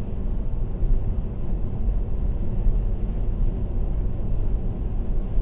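Steady low road rumble of a car cruising on an expressway: tyre and engine noise.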